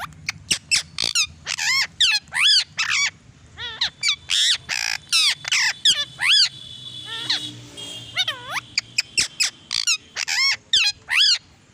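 Parrot giving a rapid run of shrill squawking calls, each a quick rise and fall in pitch, with a short steady whistle-like tone about seven seconds in.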